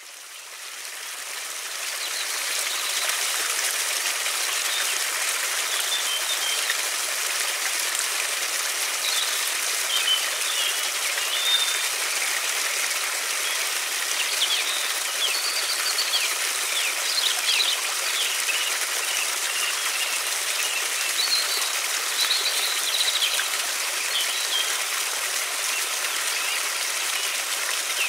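A river's water runs with a steady rushing sound, fading in over the first couple of seconds. Small birds chirp on and off over it from about a third of the way in.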